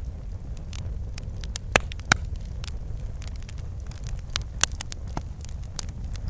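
Wood fire crackling in a fireplace: irregular sharp pops and snaps over a steady low rumble of the flames, with louder pops about two seconds in and again past the middle.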